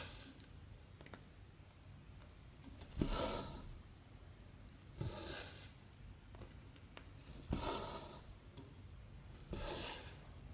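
Cotton embroidery thread drawn through 14-count cross-stitch fabric, stitch after stitch. There are four short draws, each about half a second and starting with a light tap, coming every two to two and a half seconds, with faint needle ticks between them.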